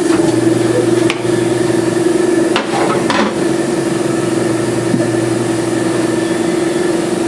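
Air compressor motor running with a steady hum while it builds pressure for the tire changer, with a few metallic clanks of the tire tools about a second in and again around three seconds in.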